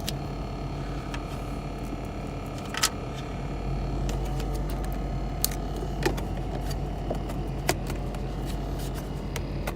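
Steady hum inside a car cabin, with a handful of sharp clicks and taps from tools and trim being handled behind the dashboard.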